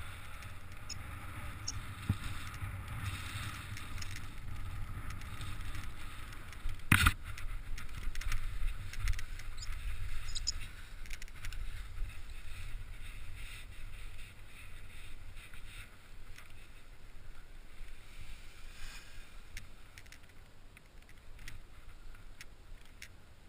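Strong wind buffeting the camera microphone in flight, a low rumble that eases off in the second half. A single sharp knock about seven seconds in.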